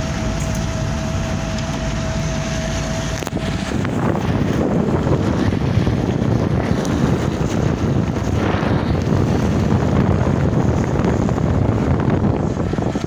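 Wind buffeting the microphone in an uneven rumble over a vehicle's running noise. A steady thin tone and hum cut out about three and a half seconds in, and the rumble grows louder from there.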